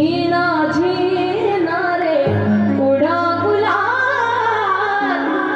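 Devotional kirtan singing: a female voice sings a melody over a steady held drone of low notes that shifts pitch twice.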